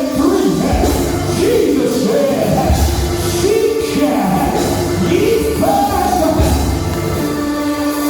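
Live gospel church music: a singing voice over a band with drums and bass, the melody moving in steps, then settling on a long held note near the end.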